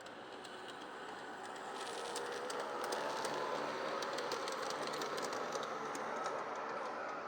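G-scale model train running on garden track: a steady motor-and-wheel running sound that gets louder over the first two seconds as it approaches, with scattered clicks of wheels over the rail joints in the middle.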